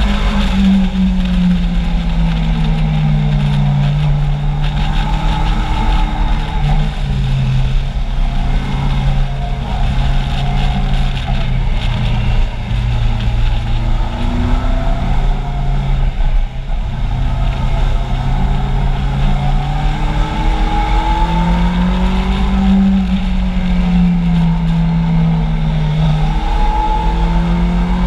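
Kawasaki Z750's inline-four engine heard from on board under riding, its pitch climbing as it pulls and dropping as it eases off or changes gear, several times over, over a steady low wind rumble on the microphone.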